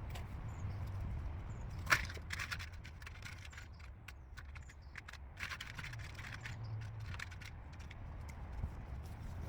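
Scattered light knocks, clicks and scrapes of wooden pieces being handled and fitted, with one sharper click about two seconds in.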